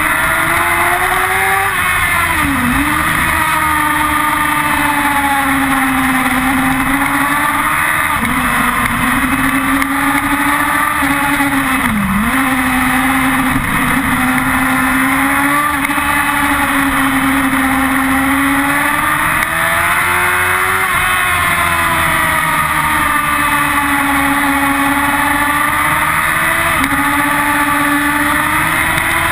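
Yamaha R6's inline-four sportbike engine at high revs on a race track, heard from a camera mounted on the bike; the engine note rises and falls repeatedly, with brief sharp dips every few seconds.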